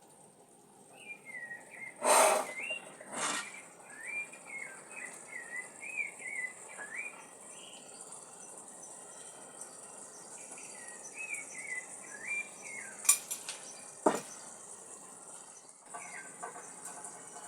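A bird singing a series of short, quick chirping phrases, with a few sharp knocks or clatters in between. A steady high hiss runs underneath.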